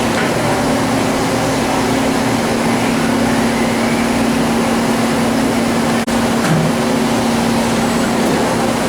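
Kuraki KHM-125 CNC horizontal machining center running under power: a steady machine hum with one constant low tone over a broad whir. The sound dips briefly about six seconds in.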